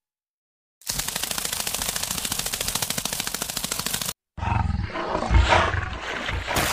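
A fast, even rattle of clicks for about three seconds that cuts off suddenly, followed by a tiger growling, deep and rough.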